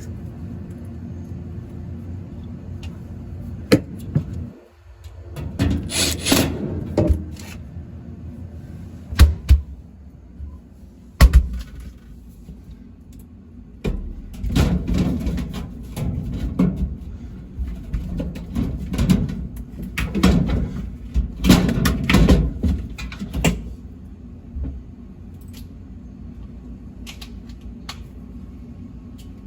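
Parts of a refrigerated prep table being handled and fitted back into place: several sharp knocks and bouts of rattling and scraping over a steady low hum.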